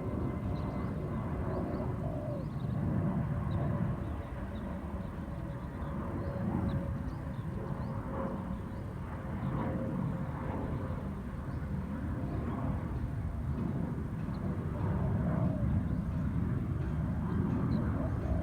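Spotted doves cooing, a caged decoy and a wild bird answering each other, over a steady low rumble with faint short high chirps.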